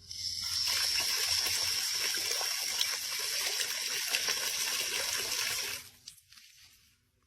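Water running steadily, a hissing rush that stops suddenly about six seconds in.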